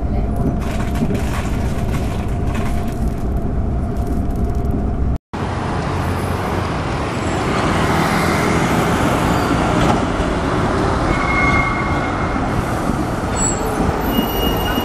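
A train running at speed, a steady low rumble heard from inside the carriage. It breaks off abruptly about five seconds in, and city street traffic follows: a steady wash of passing vehicles with a few brief high squeals near the end.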